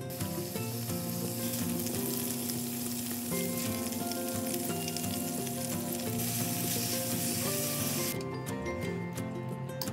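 Bacon and gopchang (small intestines) sizzling in hot oil in a frying pan, stirred with a spatula, over background music. The sizzle cuts off suddenly about eight seconds in.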